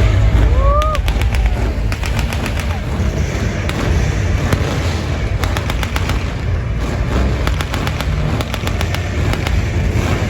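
Staged gunfire: many sharp shots in quick, irregular succession over a continuous low rumble, with a brief rising whistle about half a second in.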